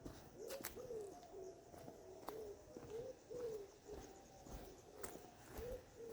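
Dove cooing faintly: short, low, hooting notes in pairs, repeated every two to three seconds.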